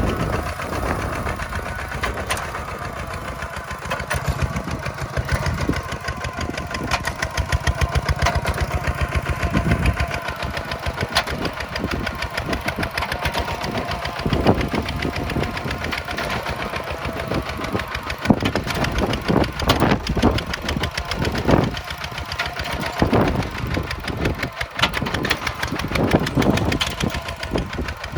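Kubota tractor's diesel engine running with a fast, even firing beat, joined by scattered clanks and knocks that come more often in the second half.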